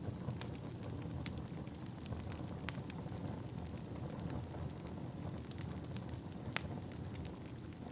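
Wood fire burning in a fireplace: a steady low rumble of the flames with scattered sharp crackles and pops of the burning wood, a few louder pops among them.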